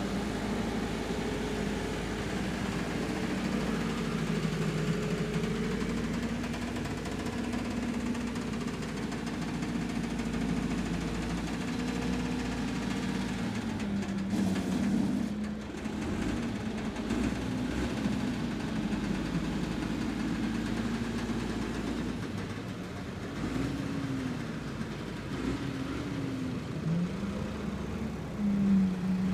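Tractor diesel engine running steadily, its pitch rising and falling several times in the second half as it is revved under work.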